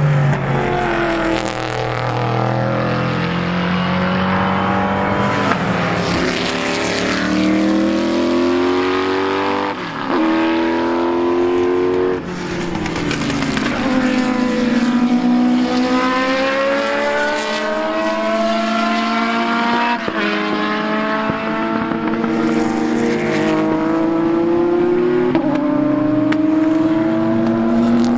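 Several racing cars driving past under hard acceleration, their engines climbing in pitch through the gears with sudden drops at each upshift and more than one engine heard at once.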